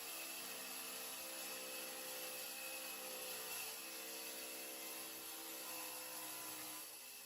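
Faint, steady motor drone with several pitched tones that drift slightly in pitch, over a high hiss.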